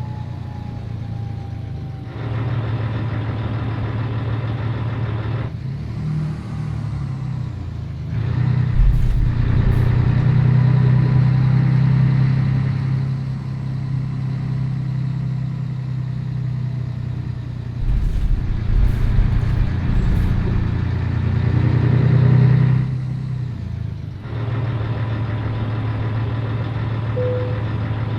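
Scania 113 truck's diesel engine running on the road, its level dropping briefly and then picking up again several times, louder for stretches in between.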